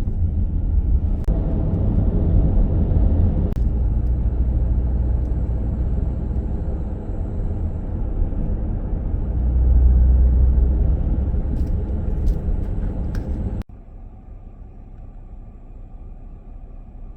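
Low road rumble inside a van's cabin while driving, swelling a little about two-thirds of the way through, with a few faint clicks. It cuts off suddenly near the end, leaving only a quiet steady hum.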